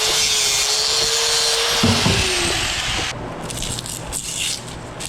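A power tool motor running steadily with a loud hiss and one steady whine, sagging in pitch and stopping about three seconds in. Quieter handling noises follow.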